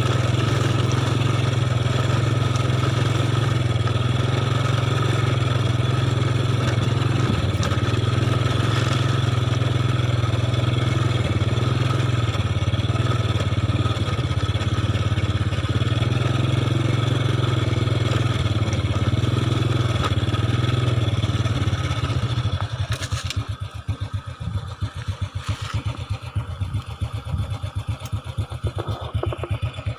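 Motorcycle engine running steadily with a strong low hum. About two-thirds of the way in it turns choppy and pulsing and gets somewhat quieter, as the engine drops to lower revs.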